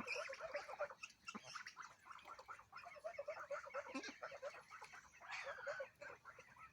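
Domestic ducks quacking in a flock, many short rapid calls overlapping in quick runs, loudest at the start and again about five seconds in.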